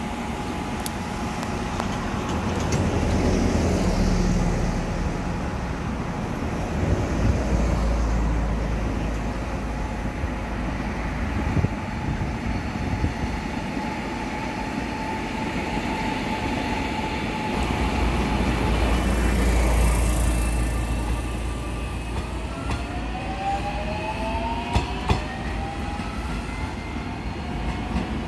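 Electric commuter trains passing on ballasted track: a steady rumble of wheels on rail with a few sharp clacks. Near the end, a rising electric whine comes in as a train accelerates.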